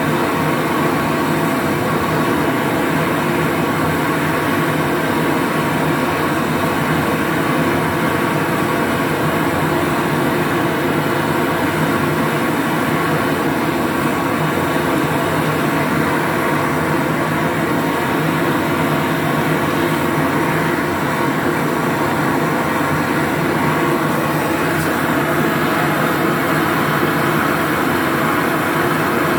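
A loud, steady mechanical running noise with a constant hum, brightening slightly a few seconds before the end.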